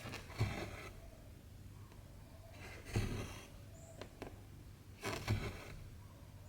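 Cross-stitching by hand: cotton embroidery thread drawn through 14-count stamped cross-stitch fabric, a short rasping pull three times, about every two and a half seconds, with faint ticks of the needle between.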